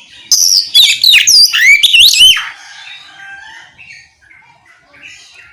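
Oriental magpie-robin (kacer) singing in the loud, open 'ngeplong' style: a two-second burst of rapid, sweeping whistled notes, followed by softer scattered chirps.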